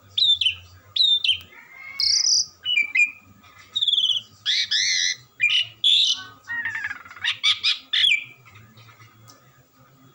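Asian pied starling (jalak suren) singing a varied run of whistles and harsh chattering notes, one phrase after another, stopping about eight and a half seconds in.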